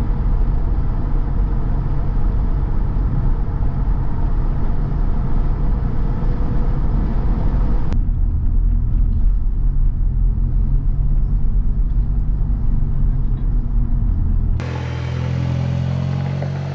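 Low, steady rumble of a car on the move, with two abrupt cuts between clips. After the second cut, near the end, it changes to a steadier hum with a few held pitches.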